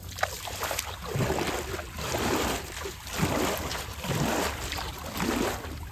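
Water splashing and sloshing in surges about once a second.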